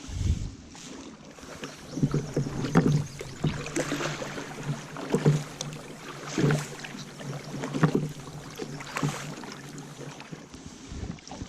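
Paddle strokes dipping and pulling through calm river water from a two-seater Pelican paddle boat, a splash and knock about every second and a half.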